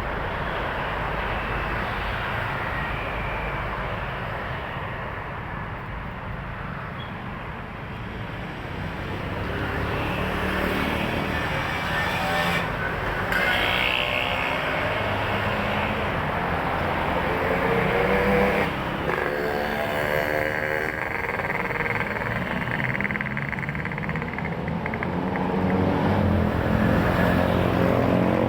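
Heavy road traffic: trucks and other vehicles passing, with engines and tyre noise running continuously. Engine notes rise and fall as vehicles go by.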